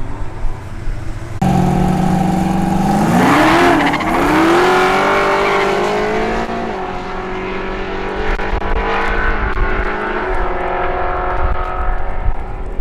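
Muscle car engine accelerating hard on a drag run. The loud engine note starts suddenly a little over a second in, climbs in pitch, then holds and drops away, settling to a steadier engine sound near the end.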